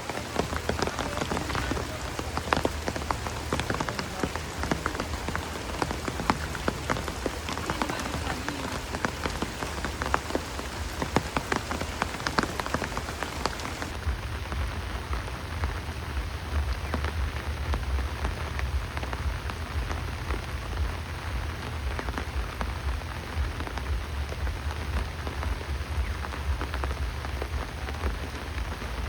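Steady rain falling, with many separate drops striking close by in the first half. About halfway through the sound changes abruptly to an even hiss over a low rumble.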